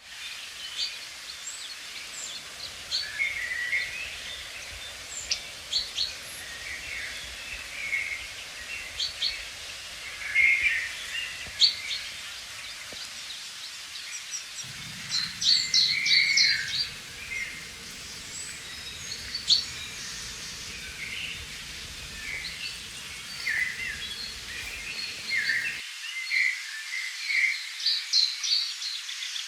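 Several songbirds chirping and singing in quick, overlapping phrases over the steady hiss of a flowing river.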